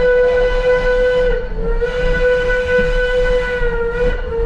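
Locomotive steam whistle blowing one long, loud, steady note that wavers briefly about a second and a half in.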